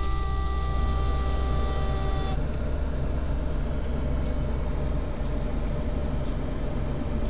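Mercedes-Benz 450SL's V8 engine idling steadily, freshly started. Over it, a steady high tone with overtones cuts off suddenly about two and a half seconds in.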